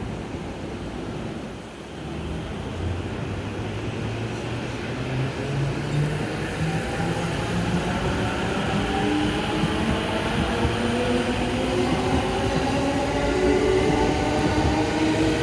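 E231-series electric commuter train pulling away: a couple of seconds in, its VVVF inverter traction motors start a stepped low hum. This gives way to a smooth multi-tone whine that rises steadily in pitch and grows louder as the train accelerates.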